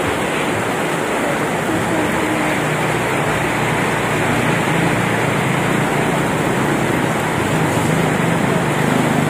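Heavy rain falling steadily: an even, unbroken wash of rain noise.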